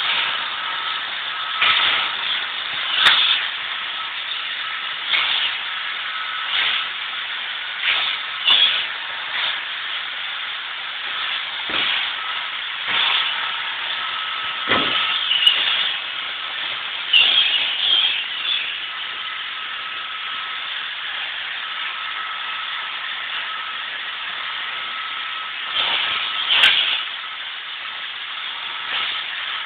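iRobot Roomba robot vacuum running, a steady motor whir with a constant whine, broken by about a dozen short knocks a few seconds apart as it bumps into things.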